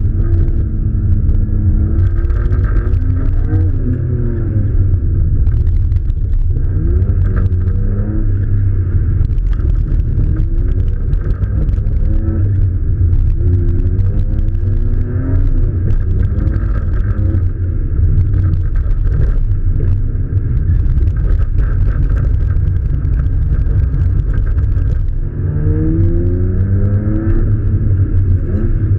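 Car engine heard from onboard during a timed course run, muffled, with a heavy low rumble. It revs up and drops back again and again as the car accelerates and lifts between corners.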